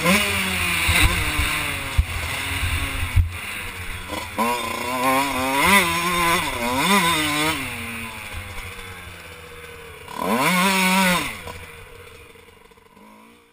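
Kawasaki KX125's two-stroke engine revving up and down in short throttle blips, with wind rumble on the helmet mic for the first few seconds. The engine then drops back, gives one last rev about ten seconds in, and the sound fades out.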